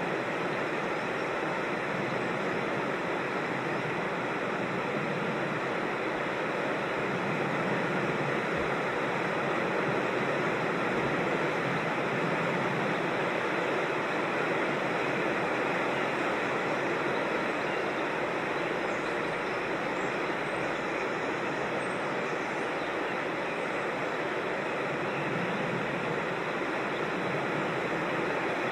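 Creek water rushing over rocks: a steady, even wash of noise with no breaks.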